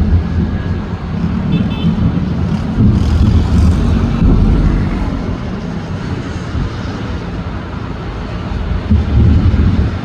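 Fireworks display going off in a continuous low rumble of booms that swells and fades.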